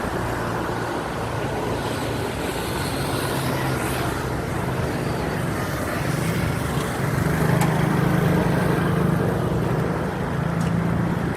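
Road traffic noise: a motor vehicle's engine hums steadily over a wash of road noise, growing louder about seven seconds in.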